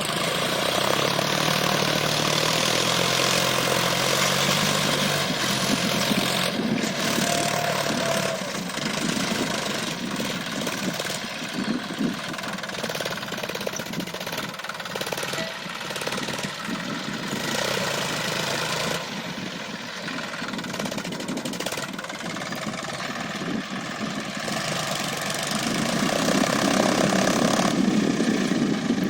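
John Deere 5050E tractor's three-cylinder diesel engine running steadily during field work, growing louder near the end.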